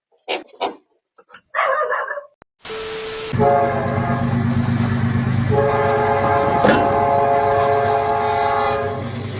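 Train horn blowing a long chord of several steady notes over the rumble of a train, with more notes joining partway through and the horn easing off near the end; a sharp click sounds about two-thirds of the way in. Before it, a few short voice sounds.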